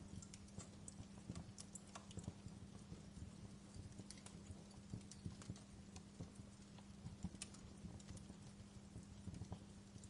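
Wood fire crackling in a fireplace: irregular sharp pops and snaps, several a second, over a soft low rumble and a faint steady low hum.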